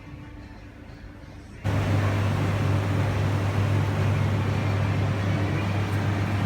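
Car heard from inside the cabin: a steady engine hum with a haze of fan and road noise, starting suddenly about one and a half seconds in after a quieter stretch.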